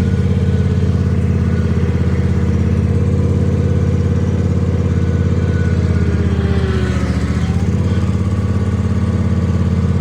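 Kawasaki FR691V V-twin engine on a zero-turn mower running steadily just after a cold start on starting fluid, warming up. Its note shifts briefly around seven seconds in, then settles again.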